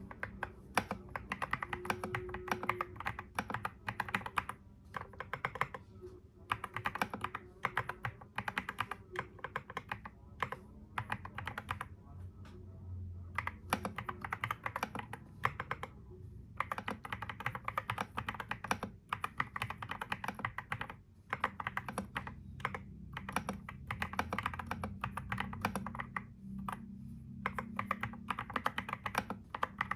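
Typing on a computer keyboard: quick runs of key clicks broken by short pauses every few seconds, over a faint steady low hum.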